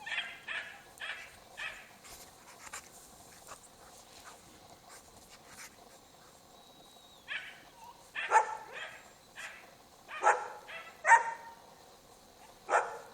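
Norwegian Elkhound barking: a quick run of barks at the start, fainter barks in the middle, then a few louder single barks in the second half.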